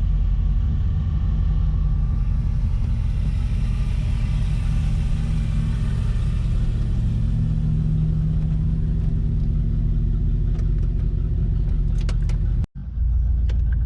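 A car engine running while the car is driven, a steady low rumble that cuts out briefly near the end.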